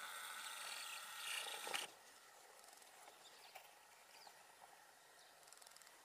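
Faint twittering of small birds for about the first two seconds, then a quiet outdoor background with a few soft chirps.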